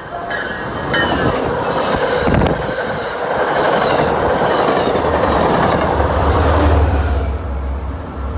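MBTA commuter rail train passing close by on the station track: a loud rush of steel wheels on rail with clicks over the rail joints. A low drone grows in the last few seconds.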